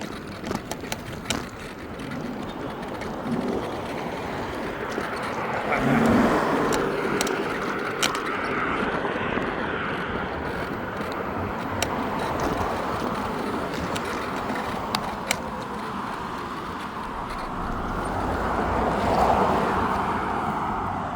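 Cars passing on a road, one swelling by about six seconds in and another near the end, over a steady rumble of road noise.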